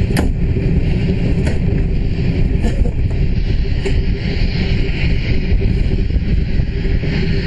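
Running noise of a steam-hauled passenger train heard from an open coach window: a steady rumble with wind on the microphone. Over it come four sharp clicks in the first half, about a second and a quarter apart, as the wheels cross rail joints and pointwork.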